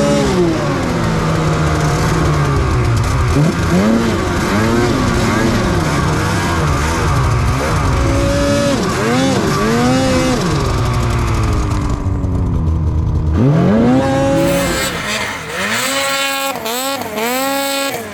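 Snowmobile engine revving hard, its pitch rising and falling again and again as the throttle is opened and eased off.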